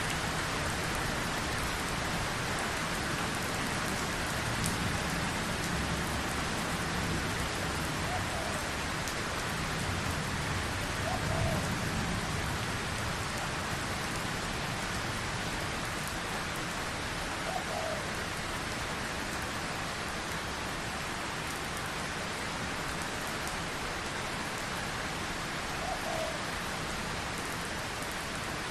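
Steady rain falling, an even hiss of many drops at a constant level, with a few faint short chirps.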